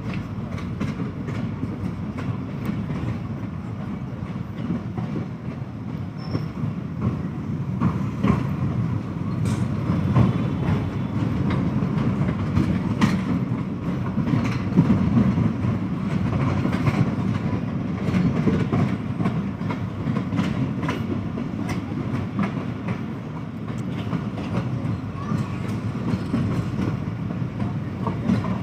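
Passenger train running along the track: a steady rumble of the coaches' wheels on the rails, with scattered clicks over the rail joints, growing somewhat louder through the middle.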